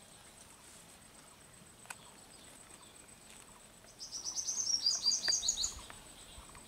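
A bird calling about four seconds in: a rapid string of short, high chirps, each falling in pitch, lasting under two seconds.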